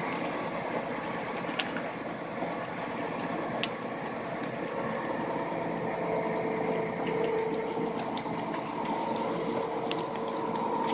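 A heavy vehicle's engine running steadily with a droning hum, with scattered sharp cracks now and then.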